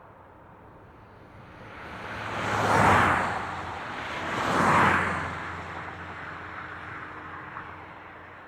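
Highway traffic: two vehicles pass close by in quick succession, about two seconds apart, each a rising then falling rush. Steadier, quieter traffic noise carries on underneath.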